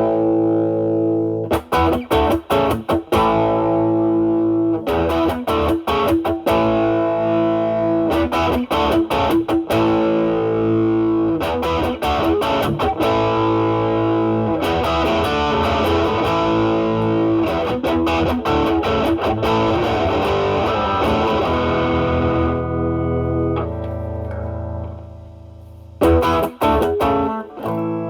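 Stratocaster with single-coil pickups played through an Ibanez Tube Screamer Mini overdrive, drive at maximum, into a Marshall Valvestate amp's drive channel: heavily overdriven electric guitar. It goes from choppy, stopped chords to longer sustained notes, dips to a softer ringing note near the end, then choppy chords resume.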